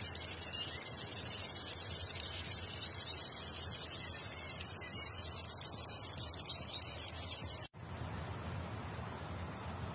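Tomatoes and eggs sizzling on a hot saj griddle: a dense crackling hiss. It cuts off abruptly about three-quarters of the way through, leaving a fainter steady hiss.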